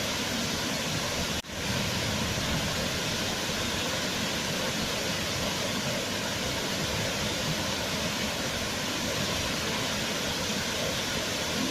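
Waterfall: a steady, even rush of falling water, with a brief dropout about a second and a half in.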